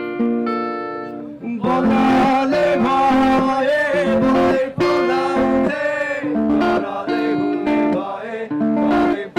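Guitar playing with a voice singing over it from about a second and a half in.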